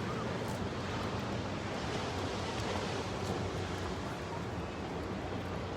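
Steady wash of ocean surf mixed with wind on the microphone.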